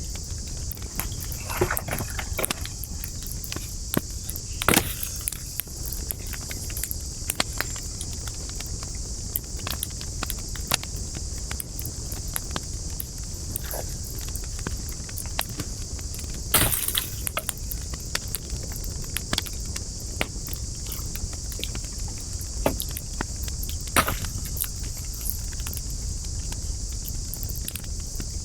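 Burning wood crackling in a campfire: irregular sharp pops and snaps, a few of them louder, over a steady low rumble of flame and a steady high hiss.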